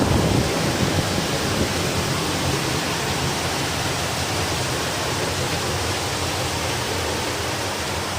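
Heavy rain and strong wind in a storm: a loud, steady, even rushing noise.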